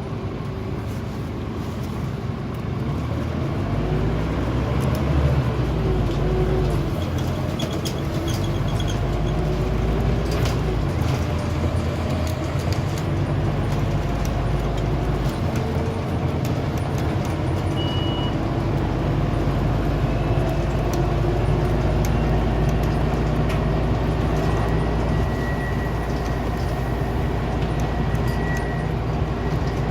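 Scania OmniCity single-deck bus heard from on board as it drives, its diesel engine and transmission running with a low rumble whose pitch rises and falls as the bus speeds up and slows. Small clicks and rattles from the body and fittings come through, and a thin high whine enters near the end.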